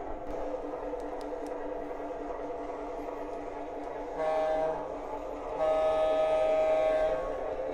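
O gauge MTH Canton Railroad diesel switcher running on its track with a steady hum, sounding its electronic diesel horn twice, a short blast about four seconds in and then a longer one.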